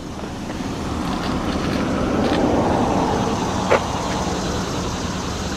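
Pontiac Firebird engine idling steadily, with a broad rise and fall of noise in the middle and a short click a little before the end.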